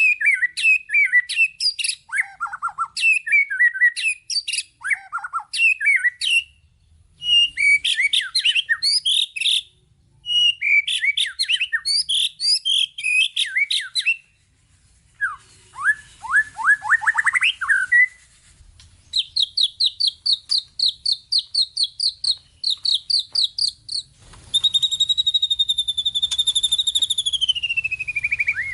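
White-rumped shama (murai batu) singing a varied song full of mimicked phrases: bursts of rapid chirping, a series of upward-sweeping notes, a fast run of repeated notes, then a long whistle that slides down near the end.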